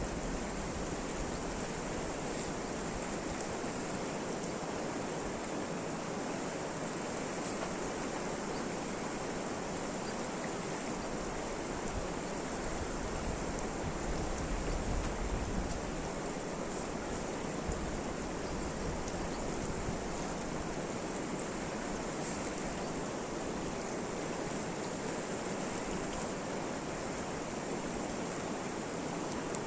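Steady rain falling, an even hiss of noise with no break.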